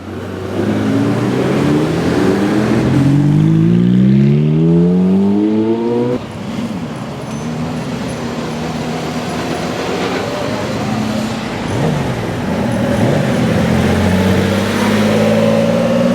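High-performance car engines accelerating hard: the engine note climbs steadily in pitch for about six seconds, breaks off suddenly, then gives way to a steadier engine note that rises again near the end.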